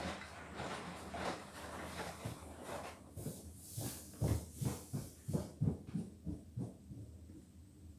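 Beko WTK104121W washing machine on a delicates wash: the drum turns and the wet laundry and water slosh and flop in a run of soft thuds, about three a second, which die away near the end as the drum stops.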